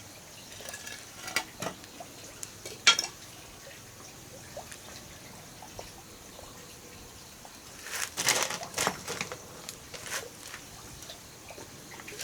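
Water splashing and pouring in short bursts, with a few sharp knocks in the first three seconds and a cluster of splashing about eight seconds in.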